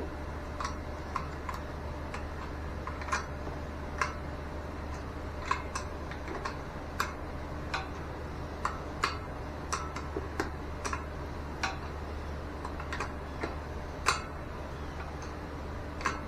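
Irregular sharp metallic clicks and light taps from tools and fittings being handled while a pressure gauge is fitted to an air compressor port, over a steady low hum.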